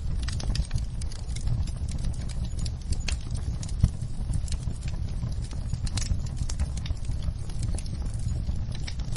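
Wood fire burning in a fireplace: logs crackling with irregular sharp pops over a steady low rumble, one pop louder than the rest about four seconds in.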